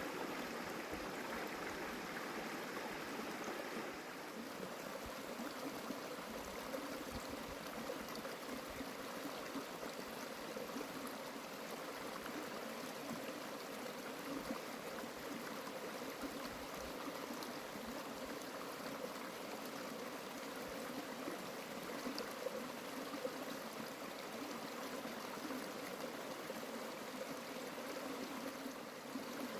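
Steady rush of flowing water from a stream, an even, unbroken sound.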